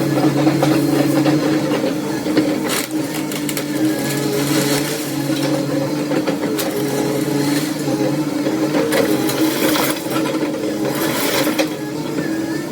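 Demolition machinery engine running steadily, with intermittent clatter and cracks of debris being broken or moved.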